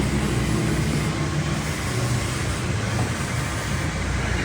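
Steady low rumble of heavy road-vehicle noise.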